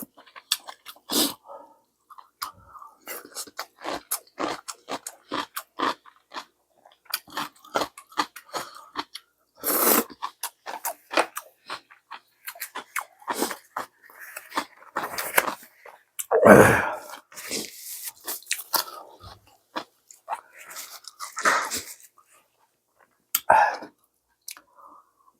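A person eating ramen and rice close to the microphone: irregular chewing with many short wet clicks and smacks, and one louder sound about two-thirds of the way through.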